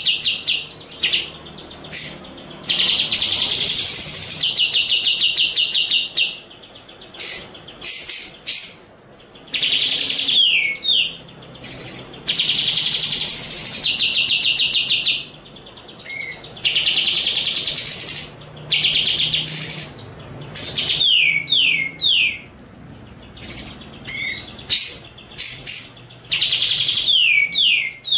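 Songbird song from a bird-training master recording: fast trilled phrases lasting a second or two, alternating with quick downward-sweeping notes, with short pauses between phrases.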